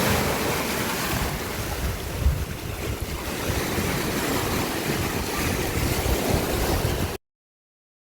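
Sea waves washing on the shore, with wind gusting on the microphone as a low rumble. The sound cuts out abruptly to silence about seven seconds in.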